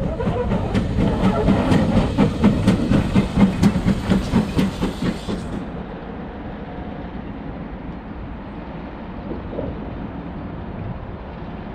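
Train running along the track, its wheels clicking rhythmically over rail joints at about two to three clicks a second over a loud rumble. About halfway through, the clicking gives way to a steadier, quieter rumble.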